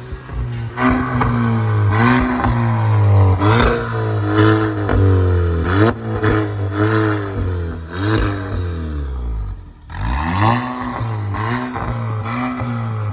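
Volkswagen Golf 8 1.5 eTSI turbocharged four-cylinder, with an aftermarket downpipe and valved exhaust, revved in a series of quick blips. The pitch rises and falls each time, and the sound drops off briefly about ten seconds in before the revving picks up again.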